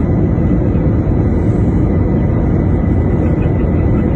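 Airliner cabin noise during landing: a steady low rumble of engines and airflow, with a faint steady high whine above it.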